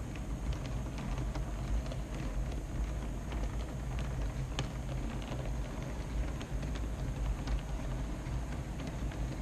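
O scale two-rail model train running, a steady low rumble and hum with many irregular light clicks over it.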